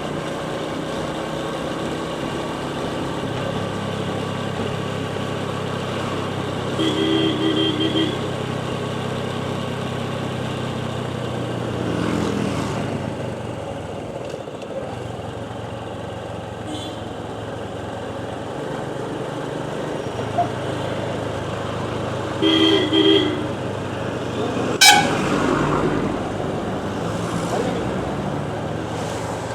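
Motorcycle engine running steadily while riding on the road. A vehicle horn honks for about a second roughly a quarter of the way in, and twice more briefly later, followed soon after by a sharp knock.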